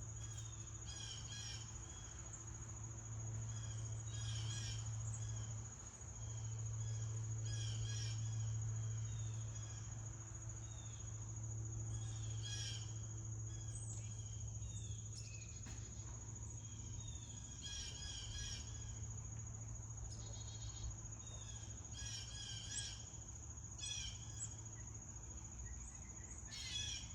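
Tufted titmouse calling in short clusters of notes every few seconds, over a steady high insect drone and a low hum.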